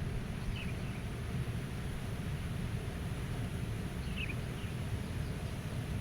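Meadow ambience: a steady low rumble of wind, with a few short, faint bird chirps about half a second in and again around four seconds in.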